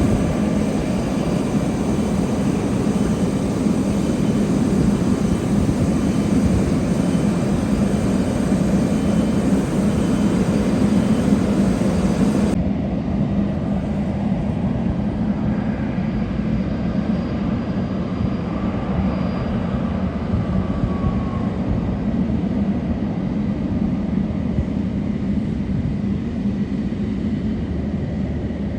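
Jet airliner engines rumbling steadily with a low, even roar. About twelve seconds in the sound abruptly loses its upper hiss, and the low rumble carries on slightly quieter.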